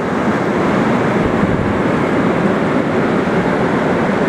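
Rain pouring down, a steady loud hiss with no let-up.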